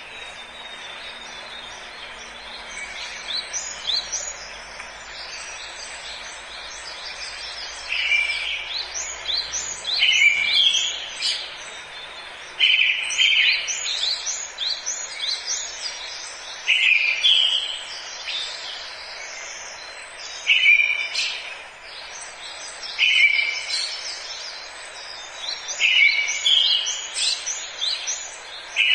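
Forest birdsong: several birds chirping and calling over a steady background hiss. From about a quarter of the way in, one bird repeats a short, loud phrase every two to four seconds.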